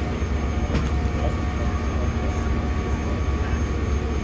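Fire apparatus diesel engine running steadily at the scene, a low rumble with a faint steady whine over it; a brief click about a second in.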